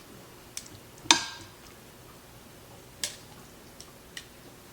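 Kitchen utensil knocking against a dish while food is spread: a loud ringing clink about a second in, a sharper knock about three seconds in, and a few light ticks in between and after.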